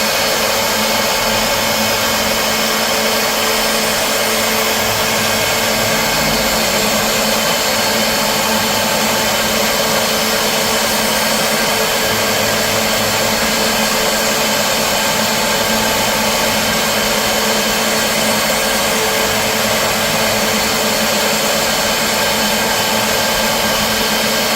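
CNC milling machine running steadily: a constant motor and spindle whine with several steady tones over a loud hiss, holding unchanged throughout.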